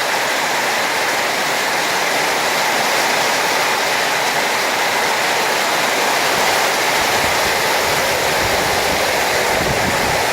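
Flash-flood runoff rushing past in a steady, even stream, like a small raging river. A low rumble joins underneath about seven seconds in.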